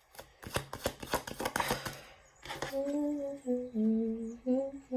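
A quick run of sharp clicks and rustles, then a woman humming a slow tune in long held notes.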